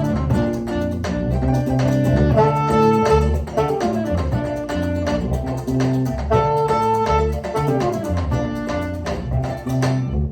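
Live band playing an instrumental guitar passage over a bass line, with no singing.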